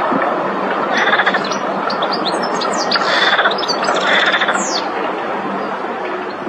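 European goldfinch singing: a fast, twittering run of short chirps and quick down-slurred notes, busiest in the middle, over a constant rushing background noise.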